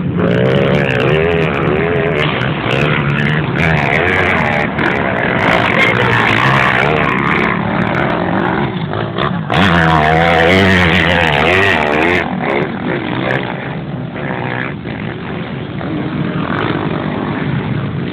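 Motocross bike engines revving hard, their pitch rising and falling repeatedly as the bikes ride the track. It is loudest in the first few seconds and again about ten seconds in.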